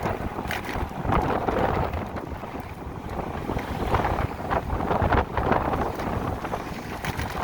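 Wind buffeting the microphone of a rider on a moving electric motorcycle: a rough rushing rumble that surges and eases every second or so.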